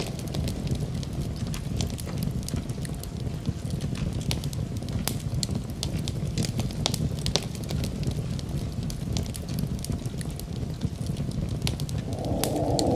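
Wood fire crackling in a fireplace: irregular snaps and pops over a low, steady rumble. About twelve seconds in, a louder steady sound swells in beneath the crackling.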